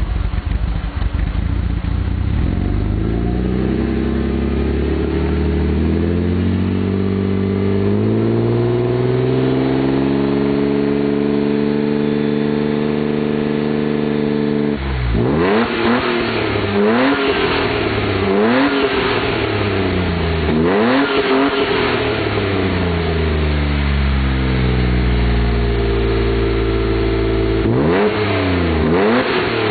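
Mercedes-Benz W124 300CE straight-six revved through a newly made center and rear muffler: from idle it climbs slowly and holds high revs for several seconds, drops back, then gives a run of quick throttle blips, another slow rise and fall, and a last sharp blip near the end.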